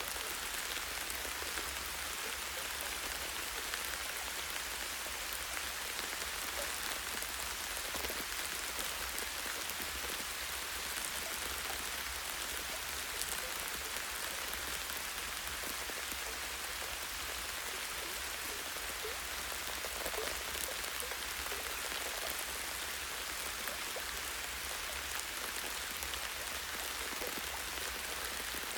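Light, steady rain with many small drops pattering on leaves and a tree branch.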